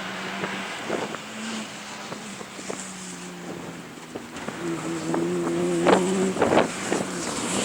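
Rally car engine running at steady, low revs, then climbing a little and getting louder over the last few seconds, with a couple of sharp pops about six seconds in.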